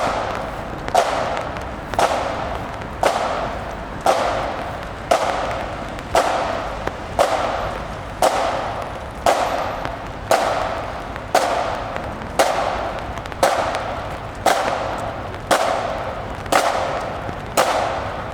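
A marching band drum struck in a steady slow beat, about one stroke a second, each stroke ringing out before the next.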